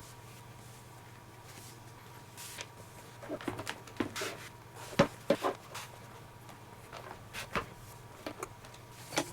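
Scattered light knocks, clicks and rustles of a leather baseball glove and its lace being handled during relacing, with the sharpest knock about five seconds in.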